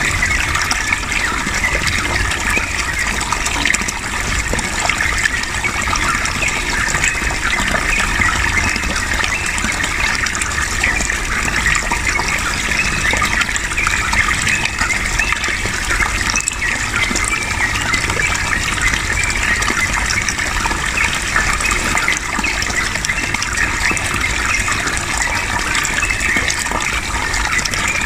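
Running water gushing and burbling steadily and loudly, with no break.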